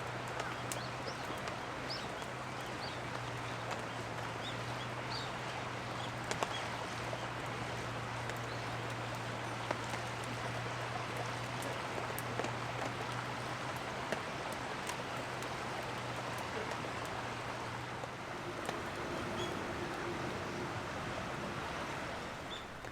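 Steady rain falling, with scattered louder drops ticking close by. A low steady hum underneath fades out near the end.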